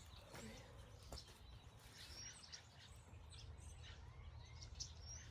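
Faint outdoor ambience: small birds chirping now and then, with a few soft clicks over a low steady rumble.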